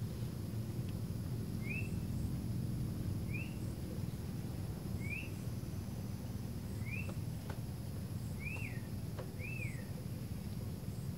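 Cinereous tit (gelatik batu) giving short clear whistled notes, six of them about a second and a half apart, the last two closer together, over a steady low background rumble.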